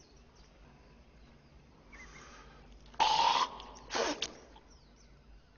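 A man hawking and spitting: a faint throat-clearing sound, then a loud, sharp spit about three seconds in and a shorter second burst a second later.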